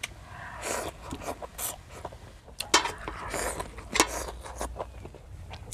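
Close-up chewing of a mouthful of fresh seaweed: wet, crunchy mouth sounds with two sharp crunches, about two and a half and four seconds in.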